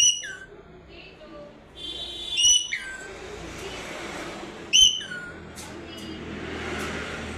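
Pet parrot giving three short, loud whistled calls about two seconds apart, each sliding down in pitch, with a steady hiss behind.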